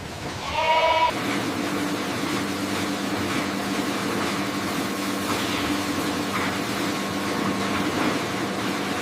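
A goat bleats briefly about a second in, then a steady mechanical hum with an even rushing noise takes over and runs on unchanged, like a machine or vehicle running.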